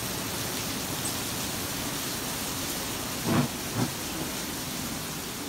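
Steady rain falling, a continuous hiss, with two short thumps a little past halfway through.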